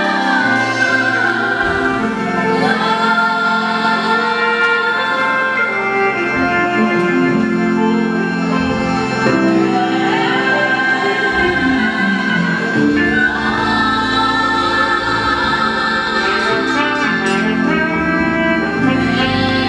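Choir singing a gospel hymn over sustained instrumental accompaniment, at a steady loud level.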